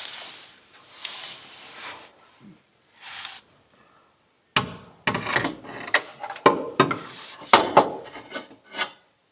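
Exhaust parts and hardware being handled and fitted: scraping and rubbing for the first few seconds, then a run of irregular sharp knocks and clanks.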